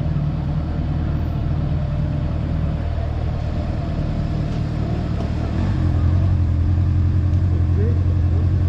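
Honda motorcycle engine running steadily on the road, its drone stepping up in loudness about two-thirds of the way through.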